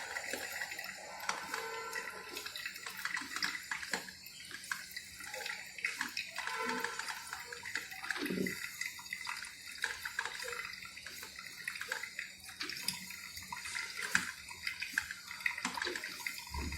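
Morphy Richards Primero electric drip coffee maker brewing: hot water hissing and trickling through the tea leaves in its filter into the jug, with irregular small pops and gurgles.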